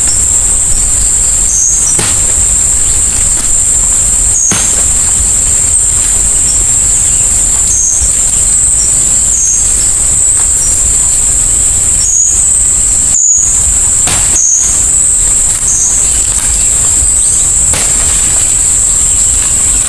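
Steady high-pitched insect chorus over the constant hiss of rain, with a few sharp knocks.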